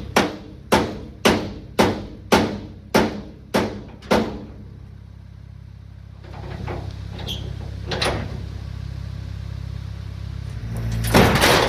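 Eight sharp knocks, about two a second, then a louder clatter near the end, over the steady idle of a 1972 Chevrolet C50 dump truck's engine.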